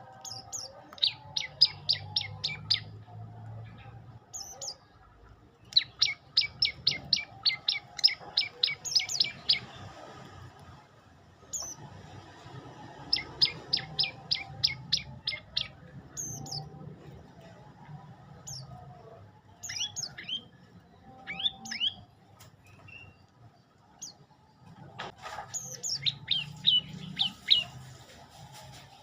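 Prenjak lumut singing: four fast runs of sharp, evenly repeated high notes, about six to eight a second, each lasting two to four seconds, with single chirps and short calls between them.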